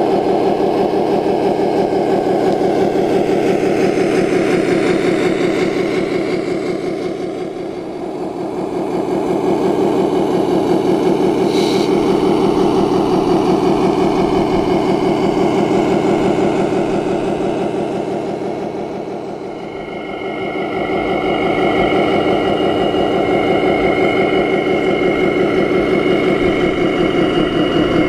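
Engine sound of a radio-controlled scale construction vehicle, running steadily. It dips in level twice, around 8 and 20 seconds in, and after the second dip a steady high whine joins it.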